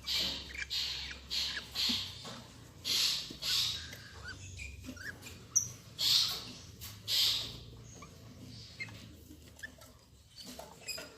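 Lovebirds at the nest box giving harsh, raspy calls in short repeated bursts, several close together at first and two more around six and seven seconds in.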